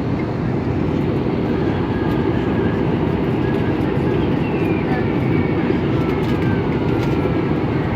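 Steady cabin noise inside an Airbus A320neo in flight: the even roar of airflow and engines, with faint higher tones sliding slowly down in pitch midway through.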